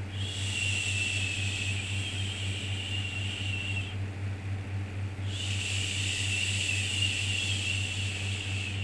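Shushing 'shhh' sound for soothing a baby, played as a loop: two long shushes, each about three and a half seconds, with a short pause between them. A steady low hum runs underneath.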